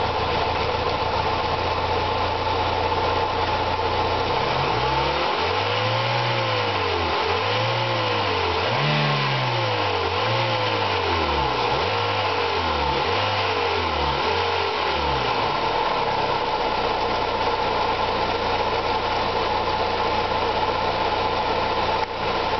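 VW Golf 2.0 8-valve four-cylinder engine idling, then revved in a run of quick blips for about ten seconds, its pitch rising and falling each time, before settling back to a steady idle. The engine doesn't run as well as it should.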